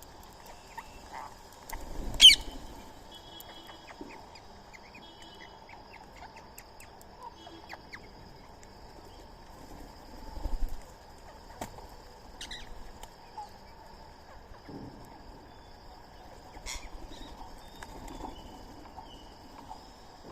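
Outdoor bird calls: one loud, sharp call sweeping down in pitch about two seconds in, then scattered short chirps, with a faint steady high tone underneath.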